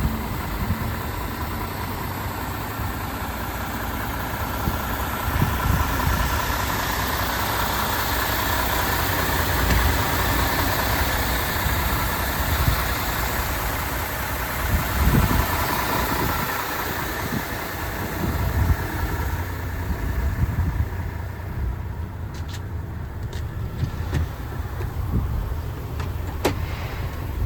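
MAN TGX 26.470 truck's 470 hp diesel engine idling steadily, with a few light clicks near the end.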